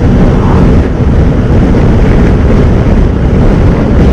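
Steady wind noise rushing over the microphone of a Honda NC750X motorcycle at riding speed, with the bike's engine and road noise underneath.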